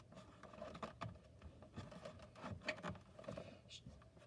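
Faint, scattered taps and light clicks of a cardboard playset and its small plastic action figures being handled.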